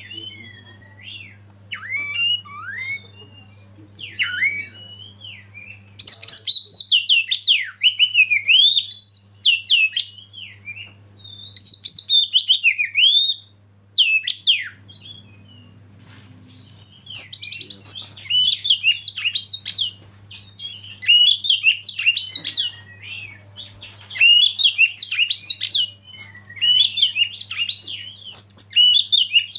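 Oriental magpie-robin (kacer) singing: loud bursts of rapid, varied whistled and chattering phrases lasting a few seconds each, with short pauses between them. A steady low hum runs underneath.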